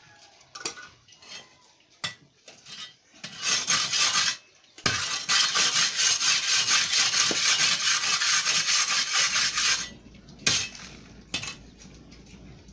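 Metal tool scraping and turning sand against a concrete floor while the sand is mixed, a short spell of scraping followed by a longer steady one of about five seconds, with a few single scrapes before and after.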